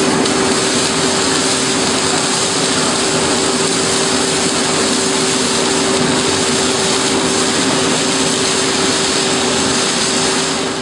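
Steady, loud machine noise with a constant hum, fading away at the very end.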